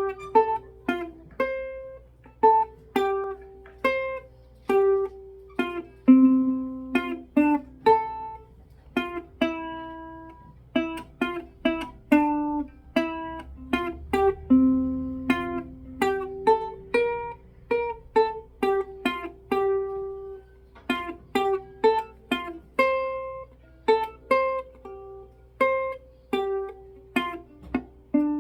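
A student's solo instrumental piece: a simple melody played one note at a time, each note starting sharply and dying away, about two to three notes a second.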